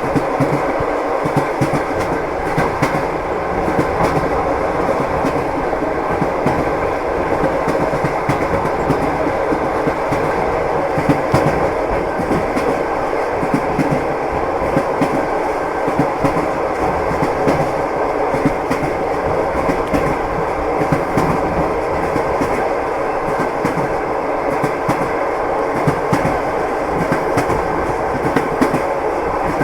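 Train wheels clattering over the rail joints: a steady rolling rumble with a constant run of clicks and knocks.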